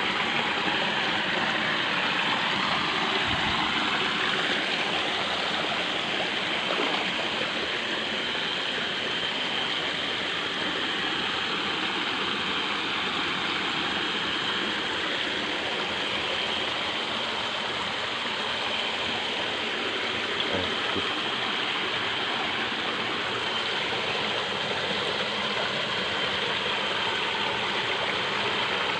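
Water of a small stream flowing steadily, with a thin, steady high-pitched tone over it.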